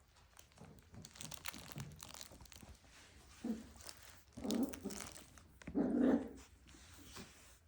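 Five-week-old doodle puppies giving three short low barks, about a second apart in the middle of the stretch, with light scratchy rustling before them.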